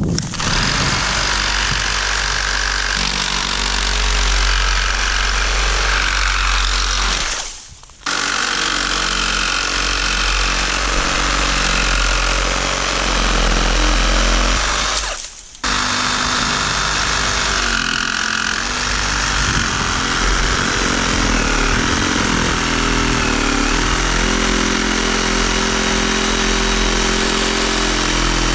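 Power saw cutting fallen timber into firewood. It runs in three long stretches, stopping briefly twice, and its pitch shifts as it works through the wood.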